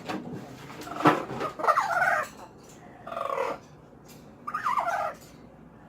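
Pet parrot in its cage calling in three bursts of wavering, warbling calls: one about a second in, a shorter one around three seconds, and another near five seconds.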